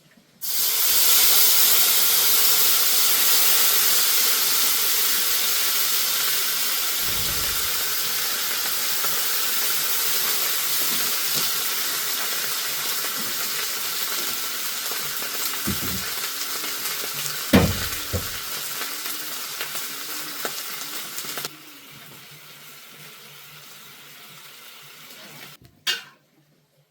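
Food hitting hot oil in a pan and sizzling, starting suddenly and slowly easing off, with a few knocks of a utensil against the pan. About 21 seconds in the sizzle drops suddenly to a much quieter hiss.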